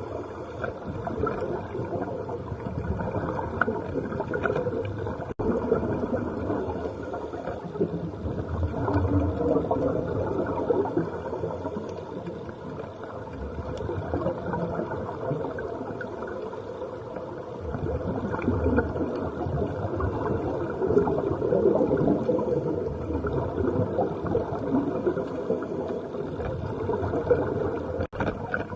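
Continuous rumbling, churning noise of a tour boat under way: engine and water rushing past the hull, rising and falling in loudness.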